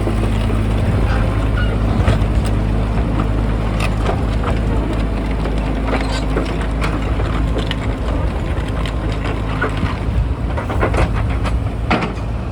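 Caterpillar 306 mini excavator's diesel engine running steadily, with scattered sharp metallic clanks and knocks, more of them in the second half.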